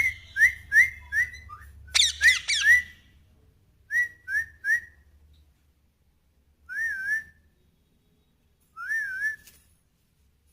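A parrot whistling: a quick run of short upswept whistles, a louder cluster of swooping notes about two seconds in, and three more short whistles around four seconds. Two longer, wavering whistles follow near seven and nine seconds.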